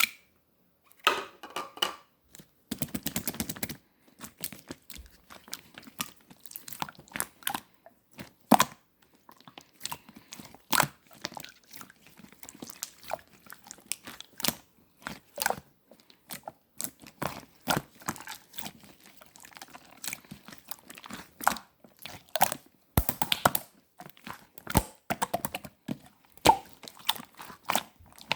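Red clear slime being worked by hand: a steady run of sticky clicks and small pops, with a quick rattle of clicks about three seconds in.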